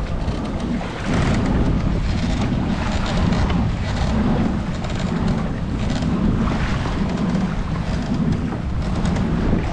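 Wind buffeting the microphone in a steady low rumble, with water splashing from kayak paddle strokes roughly once a second.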